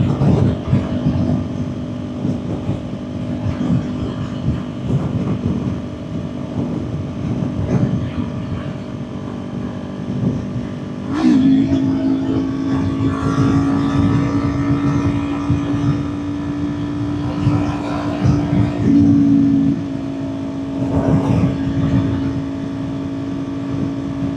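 Kawasaki Ninja 400's parallel-twin engine holding a steady note at highway cruising speed, with wind rushing over the microphone. About eleven seconds in, the engine note steps up slightly and then holds.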